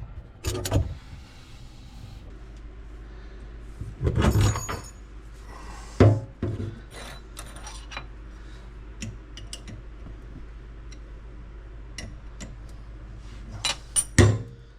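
Scattered metallic clicks and knocks from a brass retaining ring being unthreaded from an old kitchen faucet body. A few louder knocks come about four seconds in, about six seconds in, and near the end.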